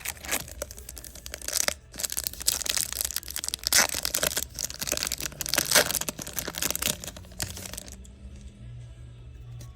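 Foil wrapper of a trading-card pack being torn open and crinkled: a run of crackly rips and rustles that stops about eight seconds in.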